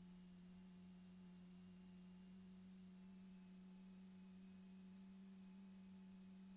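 Near silence: a faint steady low hum, with a thin high whine that drops slightly in pitch about three seconds in.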